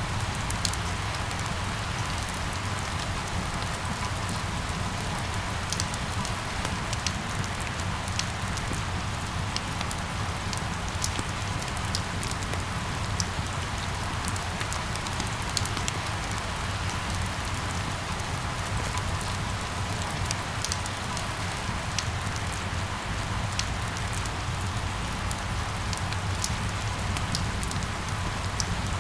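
Steady rain falling, with a continuous hiss and many small drop ticks, over a low even rumble.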